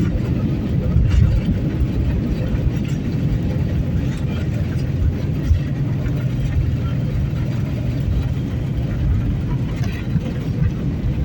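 Steady low vehicle rumble with a few light clicks and faint voices in the background.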